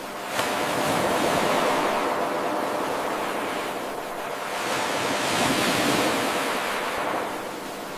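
Ocean surf washing in, swelling twice and ebbing. A short click about half a second in marks where the 8-second wave loop starts over.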